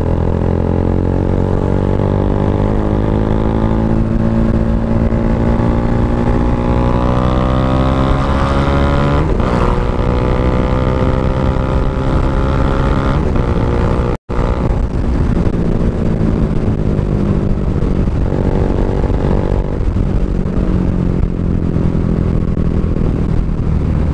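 Bajaj Dominar 400's single-cylinder engine running under way. Its pitch rises steadily as the bike accelerates over the first several seconds, then holds at a steady cruise. The sound drops out for an instant about fourteen seconds in.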